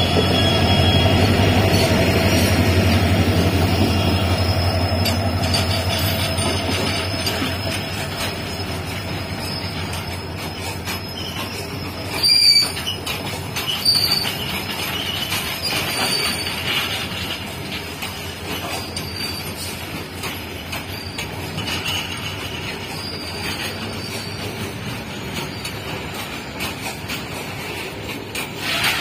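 An EMD two-stroke diesel engine of a WDP4D locomotive drones as it passes, fading over the first several seconds. Then a long rake of BCNHL covered freight wagons rolls past with steady wheel-on-rail noise. Twice, about midway, there are brief loud wheel squeals.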